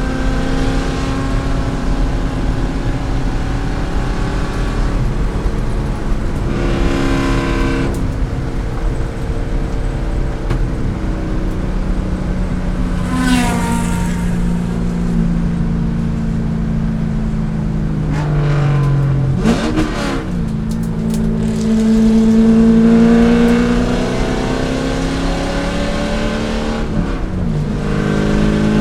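A C5 Corvette's V8 race engine running hard, its pitch rising and falling with acceleration, braking and gear changes. It gives two quick rev blips on downshifts, one about two-thirds of the way through and one near the end.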